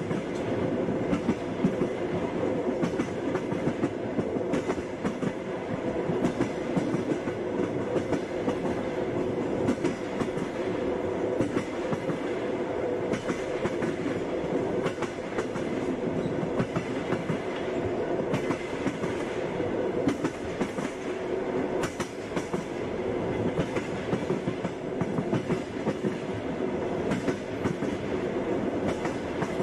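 Passenger train running steadily, its wheels clattering over the rail joints in an ongoing clickety-clack over a continuous rumble.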